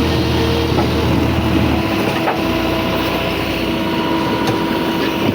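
Tractor engine running steadily, its low rumble shifting about two seconds in.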